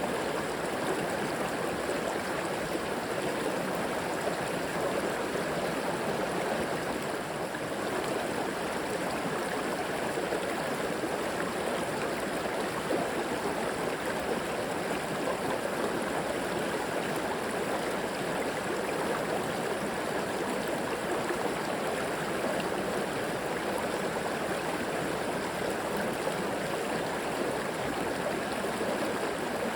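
River water flowing steadily, a continuous rushing and gurgling.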